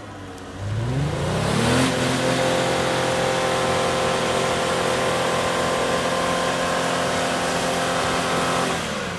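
Ford Five Hundred's 3.0-litre V6 revved hard: it climbs quickly about half a second in, holds at high revs for about seven seconds, then drops back near the end. The engine is floored with the car stuck in deep mud, its wheels spinning without getting the car out.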